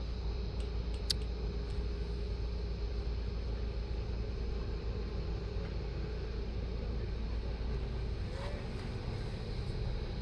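Steady low rumble with a faint hiss over it, and a single short click about a second in.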